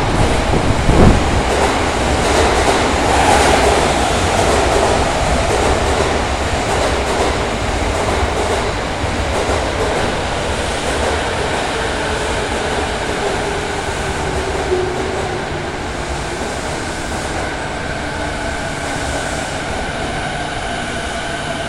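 Electric commuter train arriving at an underground station platform: a loud rumble of wheels on rail that eases as it slows, with a couple of thumps about a second in. From about ten seconds in, a whine falling in pitch comes through, settling into steady tones near the end as the train draws to a stop.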